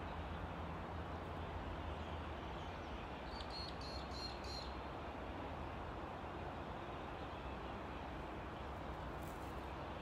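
Steady outdoor background noise with a constant low hum, and a bird calling a short series of high notes about three to four and a half seconds in.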